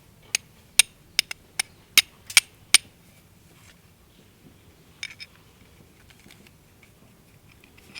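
A run of about nine sharp clinks of hard objects knocked together over the first three seconds, then two or three fainter ones about five seconds in, typical of camp gear or cookware being handled.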